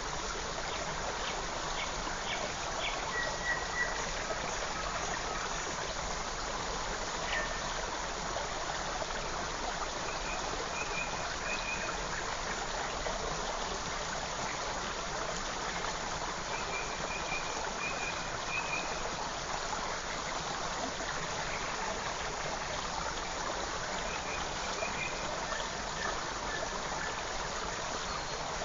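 Forest stream running steadily, with short bird chirps now and then, a few quick notes at a time.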